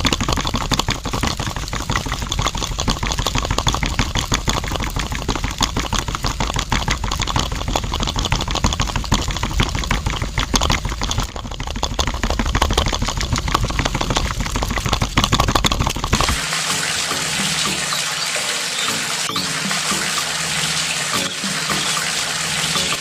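Water pouring and splashing steadily. About sixteen seconds in, the sound changes suddenly to a thinner, hissier flow with less low rumble.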